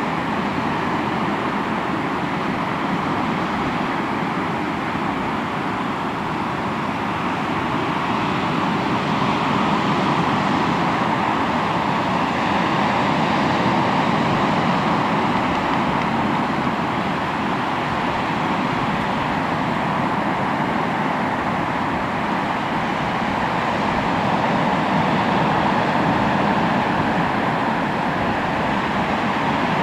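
Sea waves washing onto the shore: a steady rush of surf that swells slowly louder twice.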